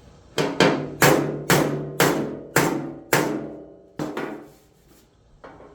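Hand hammer striking a sheet-metal body panel, about ten sharp blows at roughly two a second, each ringing briefly, then a lighter single hit near the end. The blows are working down a hump in the panel.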